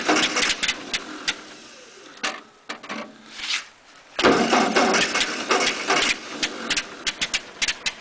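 1948 Ford 8N tractor's four-cylinder engine cranked over by its 6-volt starter in two bursts, the second beginning about four seconds in, without catching, followed by scattered ticks. The engine is cold and prone to flooding from a re-set carburetor.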